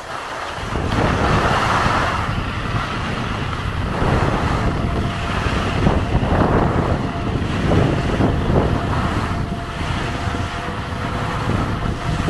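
Strong wind buffeting the microphone of a skier's camera during a run down the piste, a rushing roar that swells and eases.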